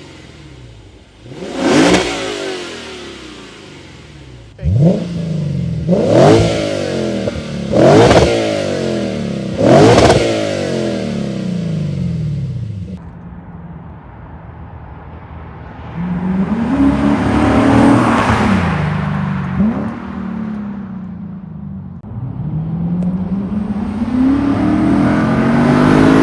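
2017 Lexus GS F's V8 through a new true-dual aftermarket exhaust, revved in about five quick, sharp blips, then running through two longer rising pulls of acceleration.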